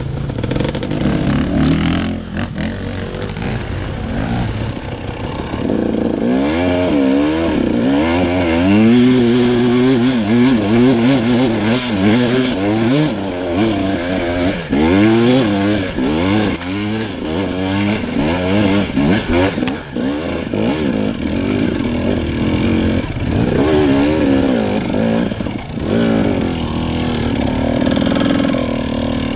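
Enduro dirt bike engine revving hard, the pitch swinging up and down again and again with the throttle as the bike struggles up a slippery hill with no run-up.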